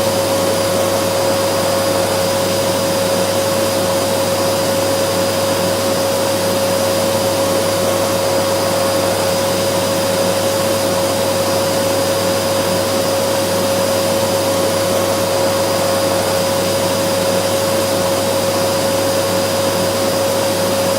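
Vacuum cleaner running steadily: an even rushing hiss with a steady whine over it, unchanging throughout.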